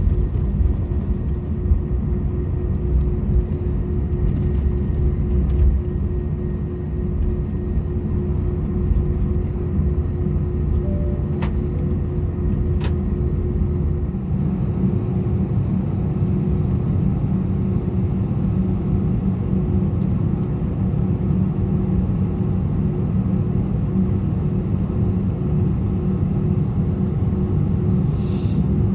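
Steady engine hum and low rumble inside the cabin of an Airbus A320 taxiing before takeoff. About halfway through, the deepest rumble eases and a higher hum comes up. Two faint clicks sound just before that.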